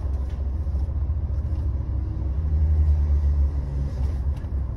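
Car engine idling, heard from inside the cabin as a steady low rumble that swells for about a second midway.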